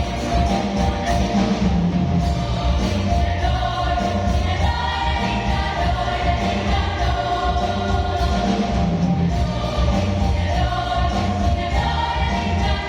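A school choir singing in several parts over a steady low beat.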